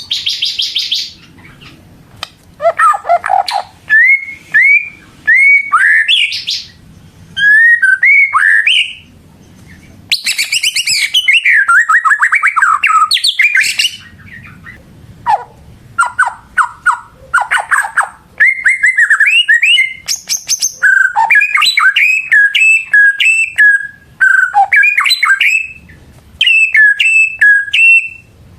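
White-rumped shama (murai batu) singing loudly in full song: a varied run of rich slurred whistles rising and falling, mixed with rapid chattering trills and clicks, delivered in phrases with short pauses between them.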